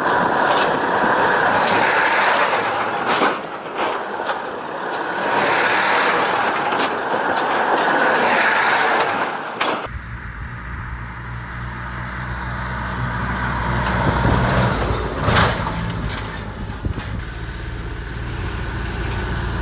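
A heavy off-road vehicle's sound in two parts. For about ten seconds there is a loud, noisy rush. Then, after an abrupt cut, a diesel-type engine runs with a steady low drone.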